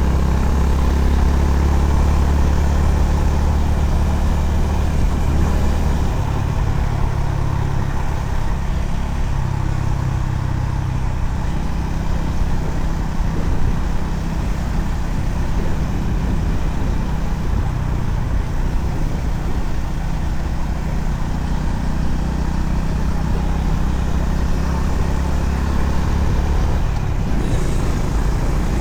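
Honda CB350RS's air-cooled single-cylinder engine running steadily on the move, over a steady rush of road noise. The engine note shifts in pitch about six seconds in and again about twelve seconds in.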